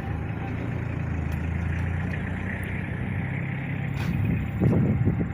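A steady low engine hum running without change, with muffled voice-like sounds coming in near the end.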